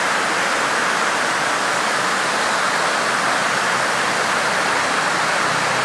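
Fast-flowing water rushing through an old dam, a steady even rush with no let-up.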